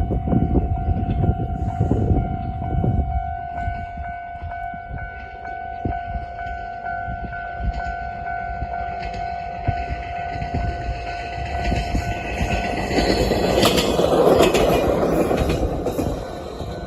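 A level-crossing warning alarm sounds steadily while a Moka Railway train runs over the crossing. The train's noise swells, is loudest about 14 seconds in, then fades.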